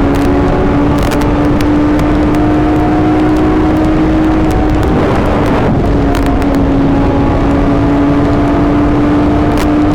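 Suzuki GSX-R750 inline-four sportbike engine running under way at a steady, slowly climbing pitch. The tone breaks briefly about halfway through, then settles back into a steady pull.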